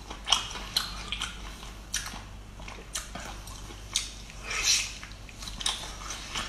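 Close-up mouth sounds of someone biting and chewing tough, rubbery boiled octopus: irregular wet clicks and smacks, with a louder, longer wet bite about two-thirds of the way in. The flesh is hard on the teeth.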